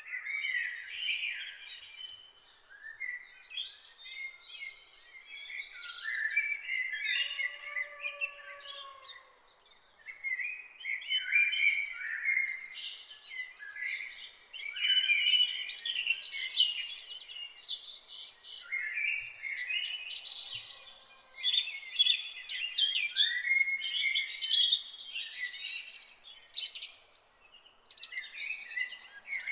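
A dawn chorus of several songbirds, many short chirps, trills and whistled phrases overlapping one another without pause.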